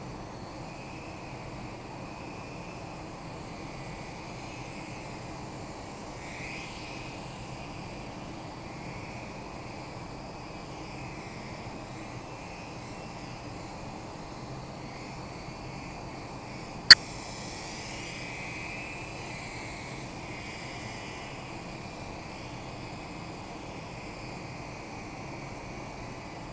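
Micro electric R/C helicopter (Comanche Pocket Eidolon) flying, its small motor and rotors giving a high whine that wavers up and down in pitch as the throttle changes. A single sharp click about two-thirds of the way through is the loudest sound.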